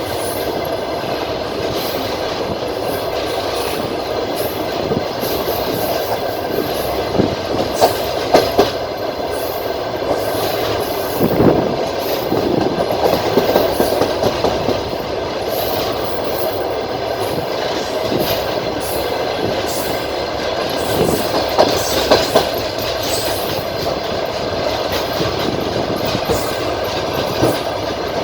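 Passenger train's wheels clacking over rail joints, heard from on board: a steady rumble with irregular louder knocks, several of them bunched about a third of the way in and again about three-quarters of the way in.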